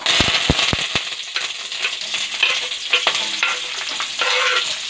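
Garlic, curry leaves and sliced onions sizzling in hot oil in an aluminium kadai, the hiss jumping up suddenly as they go in and carrying on steadily. A steel ladle stirs them, with a few dull knocks in the first second and scattered clicks against the pan.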